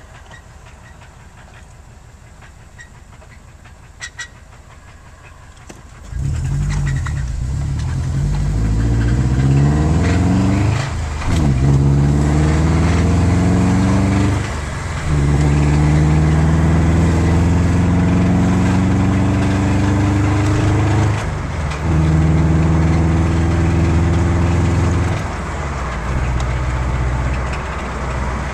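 2006 Subaru Impreza engine with a knocking noise, which the owner links to a clunk on a shift from first to second. It runs quietly for about six seconds, then loud, its pitch climbing and dropping back sharply about four times, with steady stretches between.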